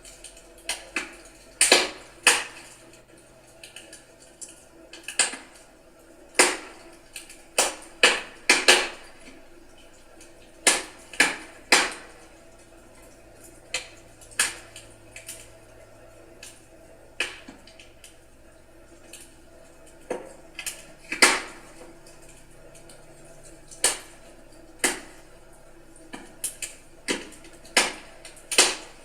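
Firewood burning in a fireplace, crackling: sharp, irregular pops and snaps, about one or two a second and varying in loudness, over a low steady hiss.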